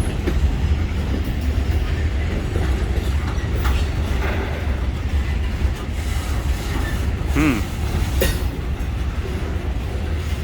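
Norfolk Southern freight cars rolling past on a slowing train: a steady low rumble with wheels clicking over the rail joints, and one brief squeal about seven seconds in.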